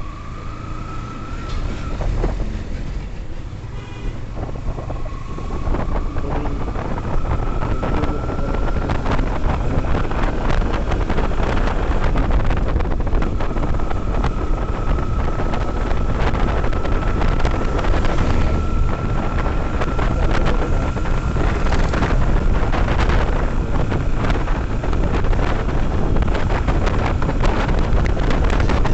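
Yamaha FZS V3 single-cylinder motorcycle being ridden, its engine and the rush of wind on the microphone growing louder over the first several seconds as it picks up speed, then holding steady.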